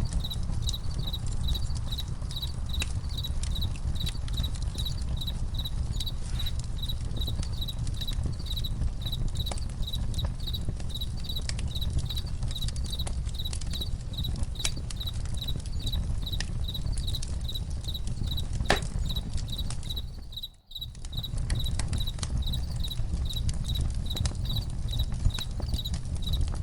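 Campfire crackling, with scattered sharp pops over a low steady rumble. Crickets chirp in a steady, regular rhythm throughout. The whole sound drops out for a split second about twenty seconds in, then resumes.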